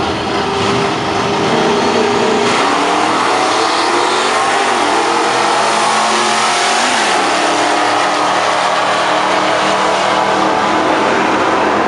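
Fox-body Ford Mustang notchback drag car accelerating hard down the drag strip at full throttle, its engine loud and climbing in pitch.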